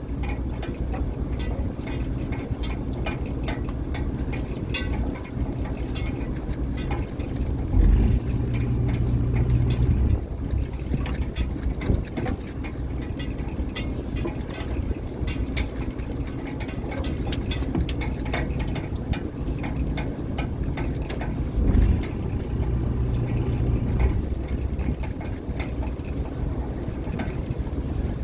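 Fishing boat's engine running with a steady low drone, swelling louder twice, about eight and twenty-two seconds in, with scattered clicks and knocks over it.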